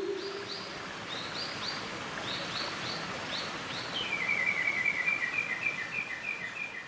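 Birds singing over a steady background hiss: short high chirps repeated in the first half, then a fast trill of alternating notes. A low ringing tone fades away in the first second.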